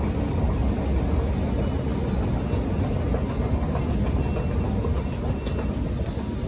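Underground train running: a steady low rumble and rush of a moving train, easing off slightly near the end.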